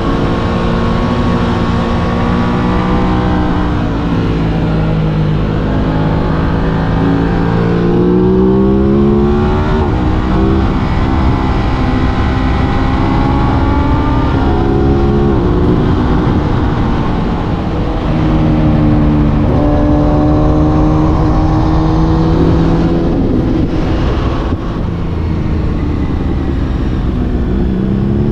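Aprilia RS 660's parallel-twin engine heard on the move over steady wind noise. Its pitch climbs under throttle and falls off several times, with a fresh climb starting near the end.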